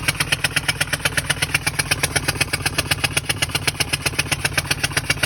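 2014 Ford E-250 van's 4.6-litre V8 running at a steady idle with a rapid, even knocking, about ten knocks a second, sharp and louder than the engine's own running sound.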